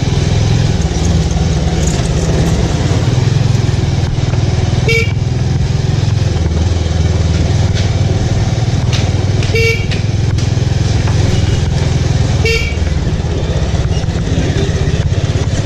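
Bajaj Avenger single-cylinder motorcycle engine running steadily on the move, with a vehicle horn giving three short beeps, about five, nine and a half and twelve and a half seconds in.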